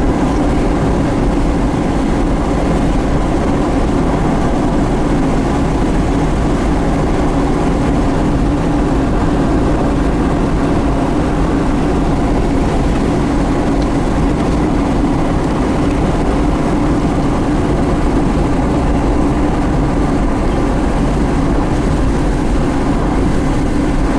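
Steady road noise and engine drone inside a moving vehicle, with an even low hum.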